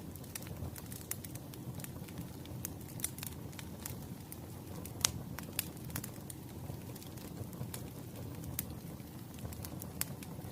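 Wood fire burning: a steady low rumble of flames with frequent sharp crackles and pops of the burning firewood, the loudest pop about halfway through.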